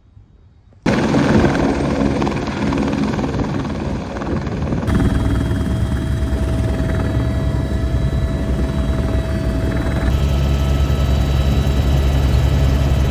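Helicopter engine and rotor running steadily, loud and low-pitched, cutting in abruptly about a second in and shifting abruptly twice more.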